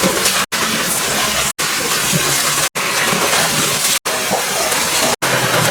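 Pressure washer spraying water, a loud steady hiss broken by brief silent gaps about once a second.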